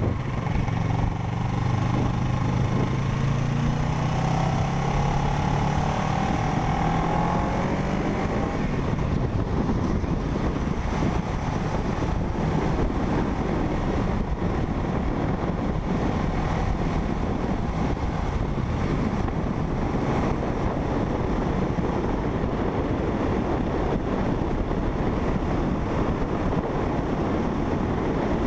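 Parallel-twin motorcycle engine running at road speed, its pitch climbing gently over the first several seconds. After that, steady wind and road noise on the rider's microphone covers it.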